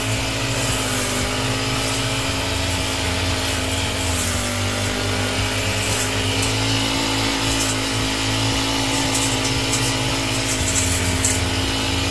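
Small petrol-engine garden trimmer running steadily while cutting the plants of a flower bed, its pitch dipping slightly about four seconds in.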